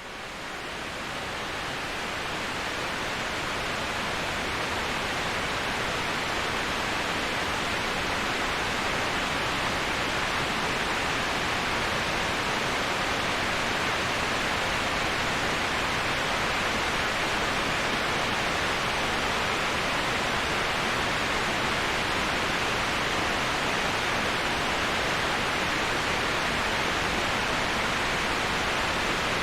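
Steady rushing waterfall noise, fading in over the first few seconds and then holding even.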